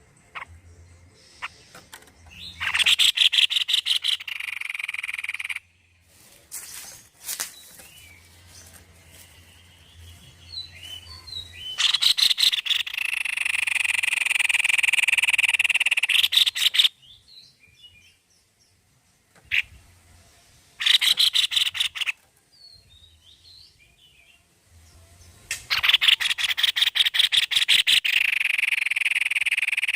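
White-necked babbler giving bouts of fast chattering trills, each lasting one to five seconds, with faint chirps in the gaps between bouts.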